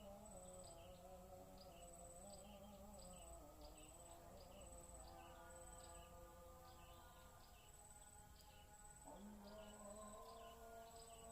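Faint, high-pitched insect chirping in a steady, evenly repeating rhythm, over soft held music tones that change pitch about nine seconds in.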